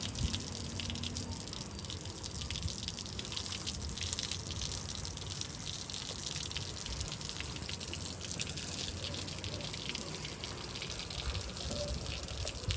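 Water running and splashing steadily, a continuous hiss full of small drips and splashes.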